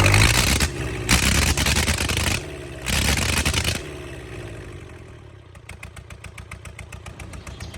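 Four-cylinder engine of an aircraft pushback tractor revved hard three times, the pitch falling back after each rev, then settling into a quieter, even idle.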